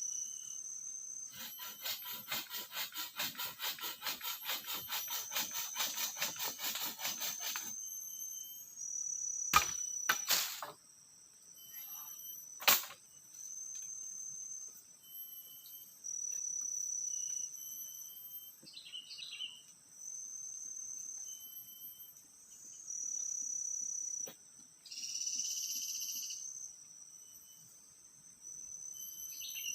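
Tropical forest insects calling in a high, thin trill that switches on and off every second or two. For about six seconds near the start a fast, rasping pulsed call joins them, and a few sharp knocks come around the middle.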